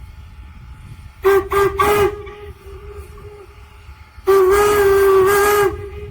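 Steam locomotive whistle of N&W 475 blowing three short blasts about a second in, then one long blast about four seconds in, over the low rumble of the train.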